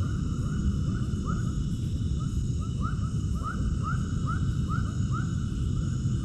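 An animal calling over and over in short rising-and-falling notes, two or three a second, clearer from about halfway, over a steady low rumble.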